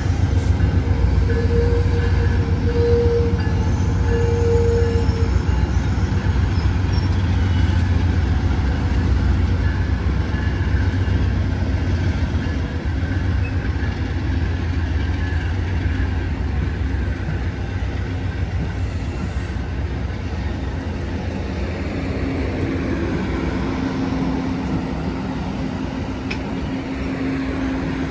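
Amtrak passenger train with a diesel locomotive: a steady, loud low engine rumble with a couple of faint held hums, slowly getting quieter.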